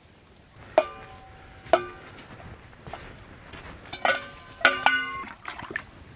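Metal objects clinking together, each strike ringing briefly: two single clinks about a second apart, then a quick cluster of clinks near the end.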